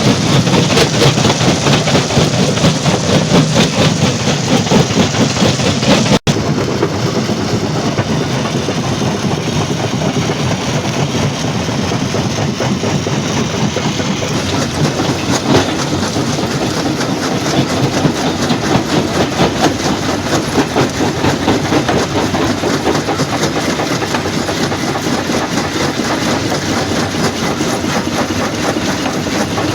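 Stone crusher plant machinery running: a loud, continuous dense rattle and clatter, broken by a momentary cut about six seconds in.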